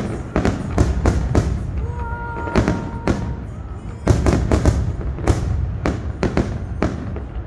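Aerial fireworks shells bursting overhead in quick succession: a dense run of sharp bangs and crackles, loudest about four seconds in.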